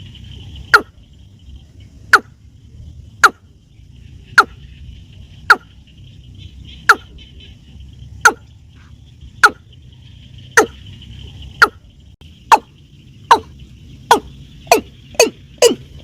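Watercock calling: a series of sharp single notes, each falling steeply in pitch, about one a second, coming faster near the end. Insects hum steadily behind.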